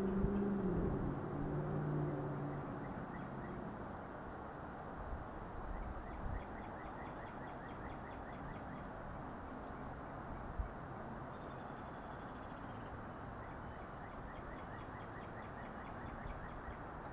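Wild birds calling over a steady outdoor rush: a run of rapid short high chips, and about eleven seconds in a thin, very high trill lasting a second and a half. A low, wavering pitched drone fades out over the first few seconds.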